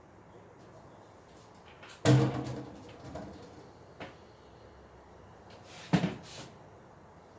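Knocks from baby crib parts being handled during assembly: a loud knock about two seconds in with a short ringing tail, two fainter knocks after it, and a quick double knock near the end.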